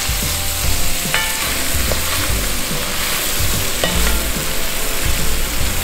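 Shrimp and sausage frying in butter, a steady sizzle, while being stirred, with irregular low knocks of the utensil against the pan.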